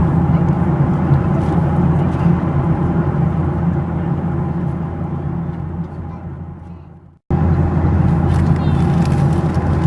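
Steady drone inside a Boeing 737-800 cabin in flight, engine and airflow noise. About two-thirds of the way through it fades away to a moment of silence, then comes straight back at full level.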